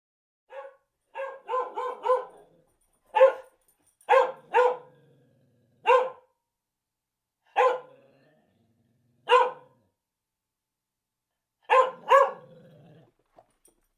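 A dog barking: about a dozen short barks at irregular intervals, with a quick run of four near the start and a double bark near the end.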